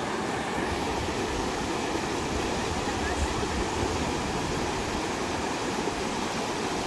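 Steady rush of a fast-flowing river swollen in the rainy season, its current strong.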